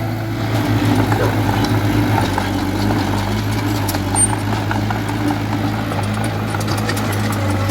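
Heavy diesel engine of a construction machine running steadily at an even low hum, with scattered light clicks over it.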